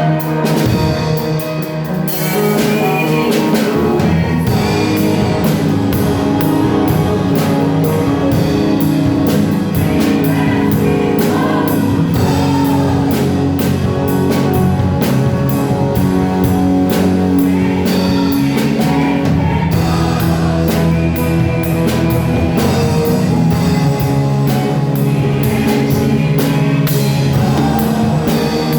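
Live worship band playing a praise song with drum kit and guitar, with singing over it.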